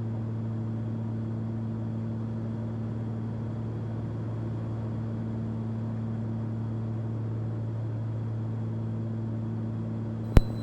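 Cessna 340's twin piston engines and propellers droning steadily in cruise, heard from inside the cabin. A single short click near the end.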